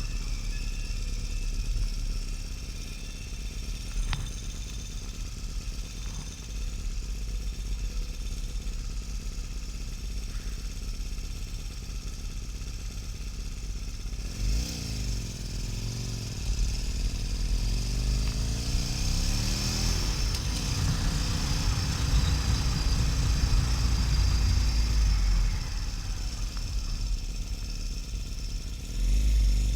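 Harley-Davidson XL1200N Sportster's air-cooled V-twin engine running under way, with wind and road noise. About halfway through it climbs in pitch twice as it accelerates, then holds louder and steady for several seconds before easing off.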